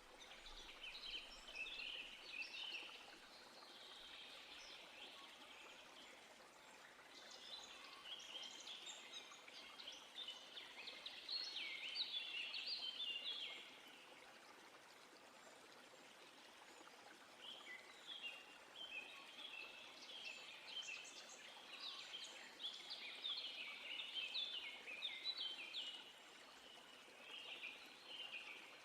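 A songbird singing long, rapid twittering phrases in four bouts, with short pauses between, over a faint steady background hiss.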